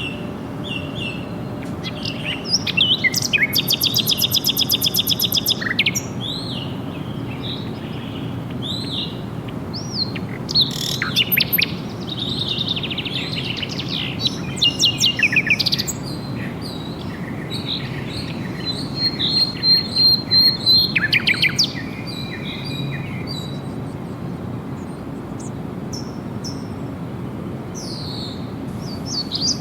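Several songbirds singing and calling at once: assorted chirps and sweeping whistles, with a fast, even trill from about three to six seconds in and another burst of repeated notes around twenty seconds, over a steady low background noise.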